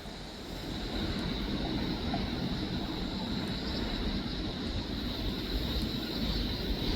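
Steady low rumble of vehicle noise, growing louder about half a second in, with a thin steady high tone above it.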